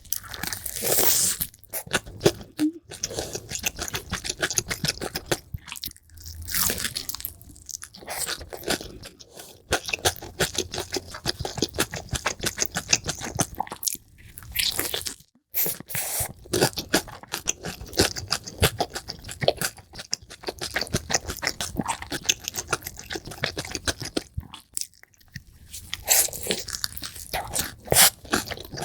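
Close-miked eating, sped up: fast crunchy bites and chewing, with a couple of brief pauses.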